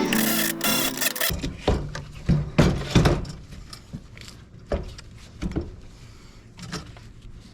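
Acoustic guitar music that cuts off about a second in, followed by a string of irregular knocks and clatter from parts being handled, fading toward the end.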